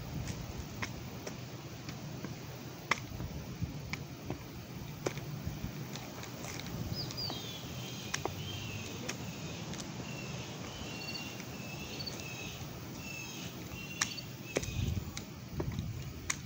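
Outdoor ambience with a steady low rumble. A bird chirps in short repeated calls for several seconds in the middle, and single sharp taps come every second or two.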